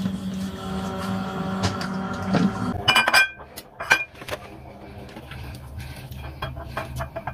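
Kitchen clatter of dishes and cutlery: a steady humming appliance stops about three seconds in, then two sharp ringing clinks of crockery about a second apart, followed by lighter taps and clicks.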